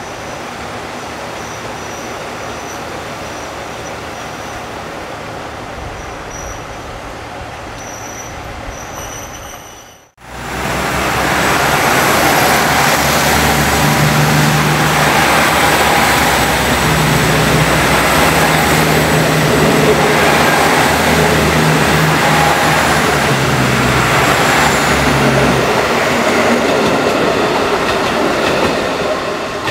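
Diesel train at a station platform: a steady moderate running sound, then after an abrupt cut about ten seconds in, a much louder train close by with wheel-on-rail noise and a steady low engine drone, easing off near the end.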